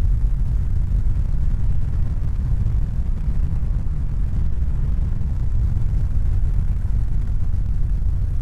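A steady low rumble: dense noise with its weight in the bass, unchanging throughout.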